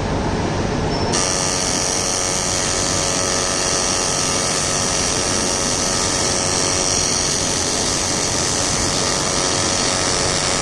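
TIG welding arc burning steadily: a continuous buzz with a hiss, the hiss growing brighter about a second in and then holding.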